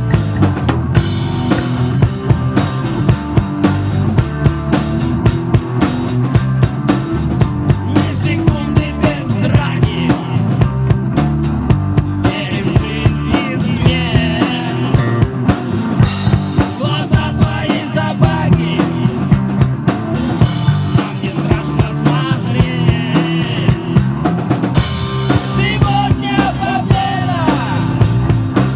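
Live rock band playing an instrumental passage: a drum kit keeps a steady beat under electric guitar.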